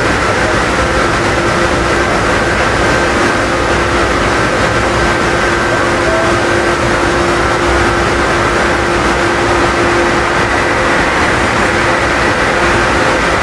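Train running: a steady, loud rushing noise with a few faint steady tones through it and no separate exhaust beats.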